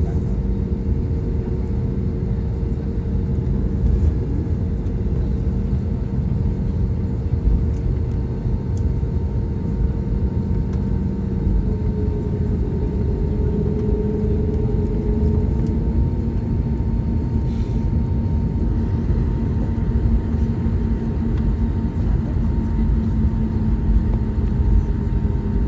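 Cabin noise inside an Airbus A320neo powered by CFM LEAP-1A engines: a steady low rumble with several humming engine tones, one of which shifts in pitch about halfway through.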